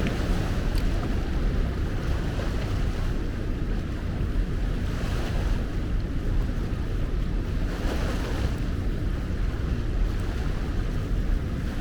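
Steady rush of heavy current pouring through a river lock and dam spillway, with a low rumble of wind buffeting the microphone.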